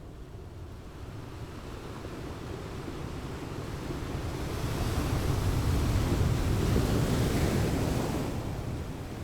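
Ocean surf with wind: a rushing noise that swells to its loudest about two-thirds of the way through and then eases off again.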